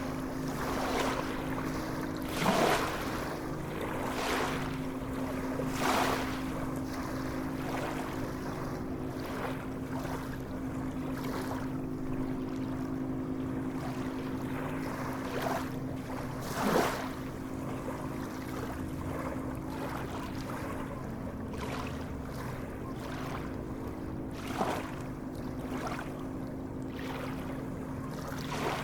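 Sea waves washing and splashing, with a louder splash standing out every few seconds, over a steady low hum.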